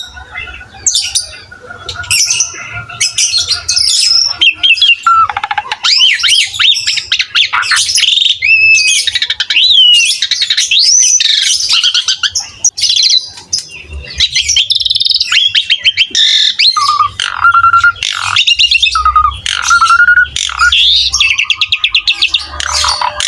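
Jalak suren (pied starling) singing continuously: a rich, varied run of loud whistled glides, rapid trills and harsh chattering notes with only brief pauses.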